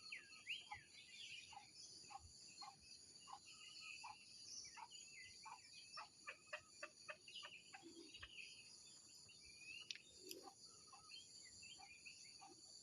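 Faint bird calls: many short chirps and call notes, with a quick run of notes around the middle, over a steady high-pitched insect drone.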